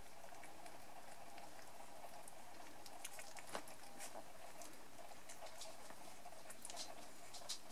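Three-and-a-half-week-old poodle puppies' paws and claws scrabbling and pattering as they play: scattered small clicks that become more frequent near the end, over a steady background hum.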